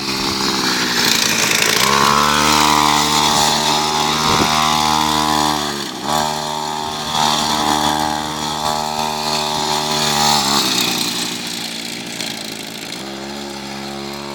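Quad bike engine revving and held at speed, the throttle easing off briefly about six seconds in and again near ten seconds, then settling to a lower steady note.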